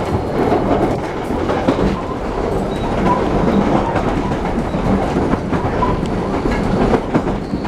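Washing machine tumbling inside a turning cement mixer drum: a steady, loud stream of rattling and knocking with no pauses.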